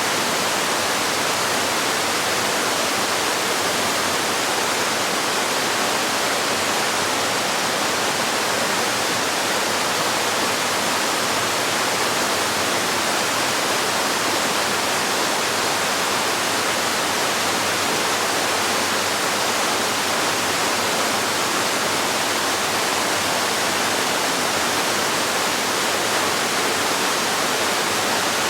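Waterfall: water falling and splashing in a steady, even rush, mostly hiss with little low rumble.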